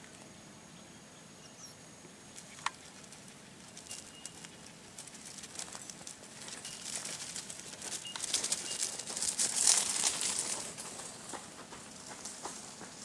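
Dry rustling and crackling made of many fine clicks, swelling over several seconds to a peak and then fading, with one sharp click shortly before it starts.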